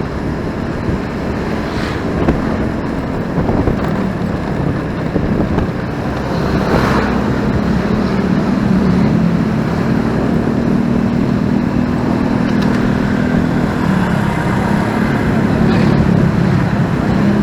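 Motorcycle riding in city traffic: the bike's engine running steadily under wind noise on the microphone and surrounding road traffic, with a brief louder passing sound about seven seconds in.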